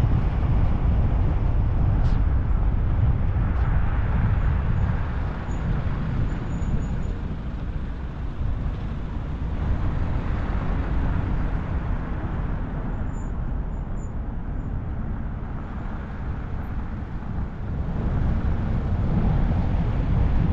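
A car driving along a road: a steady low rumble of engine and tyre noise, easing off from about five seconds in and growing louder again near the end.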